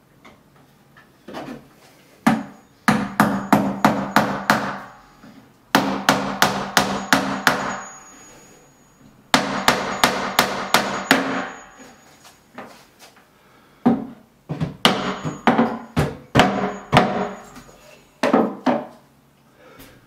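Hammer striking repeatedly in several quick runs of about four blows a second, each run lasting a second or two, with short pauses between them.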